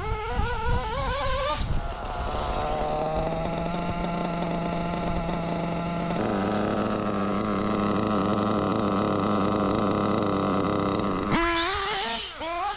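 Ielasi Dusty nitro RC engine running unevenly. Its pitch wavers in the first couple of seconds, then it holds a steadier drone that changes abruptly about six seconds in, and it rises sharply near the end before dropping off. The engine is running inconsistently; the owner had found it lean on the low-speed needle and turns next to the glow plug.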